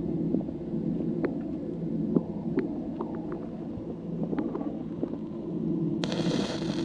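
Low rumble with scattered small clicks. About six seconds in, the crackling hiss of a stick-welding arc with a 6011 rod starts abruptly.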